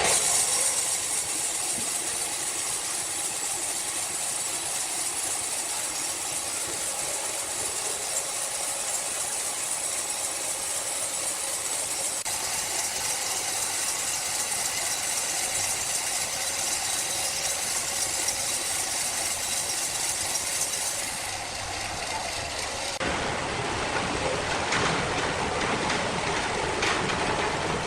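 Large sawmill machine running with a steady high hiss. About three-quarters of the way through it changes to a rougher, fuller noise with rapid clatter.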